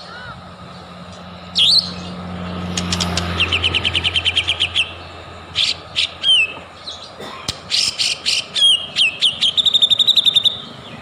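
White-rumped shama (murai batu) singing: loud whistled notes and sweeps, with two fast trills, one about a third of the way in and one near the end.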